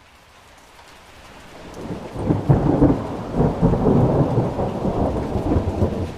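Rain fading in, then a long peal of thunder that swells about two seconds in and rumbles, crackling, until near the end.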